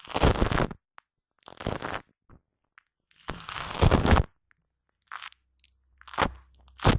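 Shaving foam squished and rubbed directly on a Blue Yeti microphone, giving sticky, crackly squishes in about six bursts with short silences between them; the longest come near the start and from about three to four seconds in.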